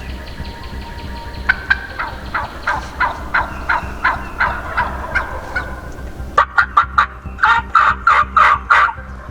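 Turkey calls: a long series of short, evenly spaced yelping notes, about three a second. Then a quick run of sharp notes and a louder series of notes near the end.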